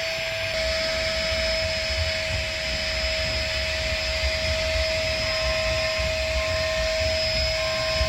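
Steady mechanical whooshing noise with a low rumble and a constant high whine; a fainter second tone comes and goes in the second half.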